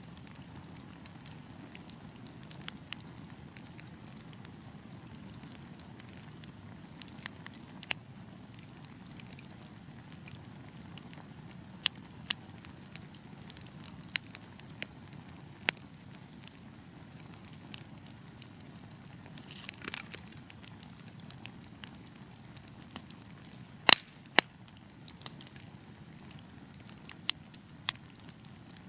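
Fireplace fire crackling, with sharp pops scattered irregularly over a steady low rumble of flame. There is a short hiss about two-thirds of the way through, and a loud double pop soon after.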